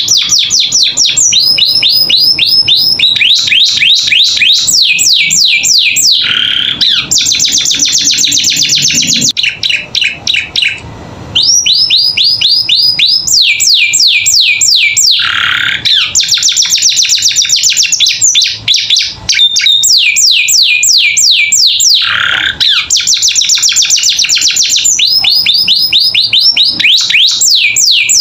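Domestic canary singing a loud, continuous song made of fast trills, each a run of rapidly repeated high chirps. The song breaks off briefly about ten seconds in, and a lower note is dropped in between runs every several seconds. This is the full, constant song of a trained 'isian' canary.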